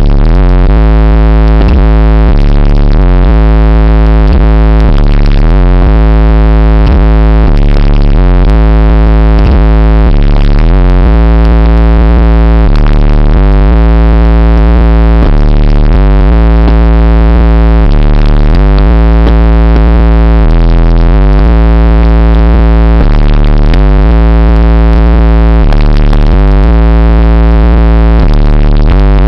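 Competition car-audio system in a truck playing bass-heavy synth music at extreme volume, its deep bass notes driving the microphone to its limit.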